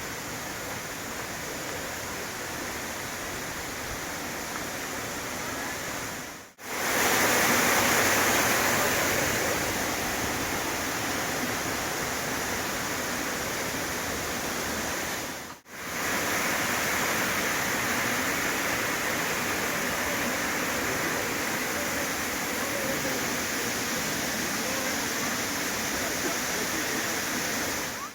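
Steady rushing of a waterfall, an even hiss of falling water. It comes in three stretches joined by brief dropouts about six and a half and fifteen and a half seconds in, and it is loudest just after the first dropout.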